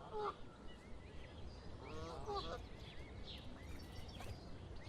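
A waterfowl giving two short nasal honking calls, one at the start and one about two seconds in, with thin high peeps between them.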